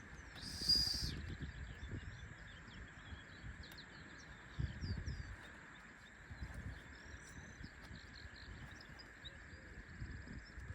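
Faint outdoor ambience: small birds chirping repeatedly in short calls over a low rumble.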